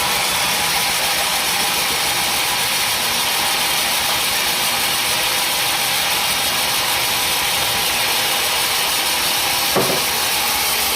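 Sawmill machinery running steadily with a constant, even noise. A single short knock sounds near the end.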